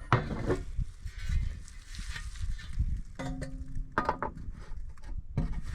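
Light clicks and knocks of the wood chipper's air filter cover being fitted back on by hand, over a low rumble, with a short steady hum about three seconds in.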